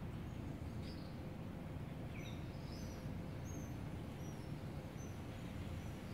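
Small birds chirping: a run of short, high chirps, thickest from about two seconds in until near the end, over a steady low outdoor rumble.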